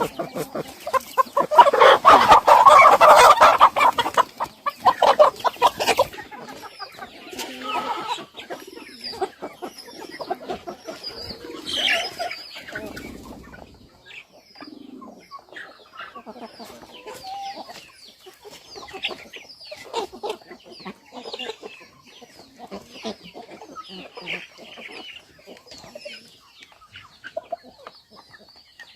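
Chickens clucking in a farmyard flock. The sound is loudest and densest for a few seconds near the start, then continues as scattered short clucks.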